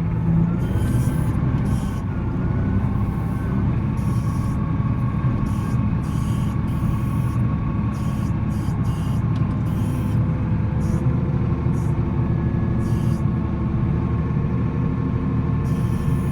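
Volvo L70C wheel loader's diesel engine running steadily under load, with a faint wavering whine above it.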